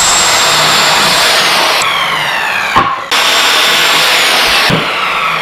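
Handheld circular saw running at full speed and cutting through a wooden board, with a steady high whine that sags slightly as the blade bites. It stops briefly about three seconds in, then runs again.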